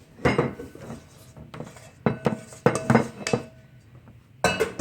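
Kitchen utensils and dishes clattering: several sharp knocks and clinks in a few clusters, some of them ringing briefly, the loudest near the end.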